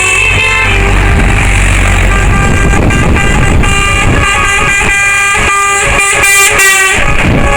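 Lorry air horns sounding over the rumble of passing truck engines, several horn tones held and overlapping at once.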